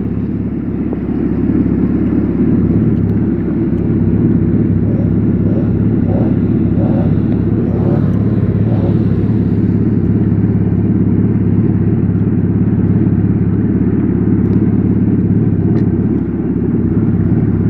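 Honda AquaTrax turbo jet ski's four-stroke four-cylinder engine idling steadily.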